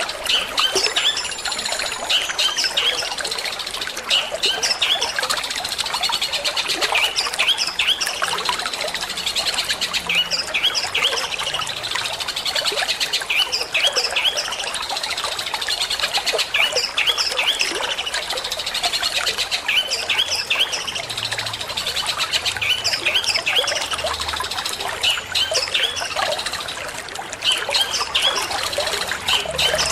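Long-tailed shrike (cendet) singing a rapid string of short, sharp chattering notes in quick clusters, over a steady trickle of running water.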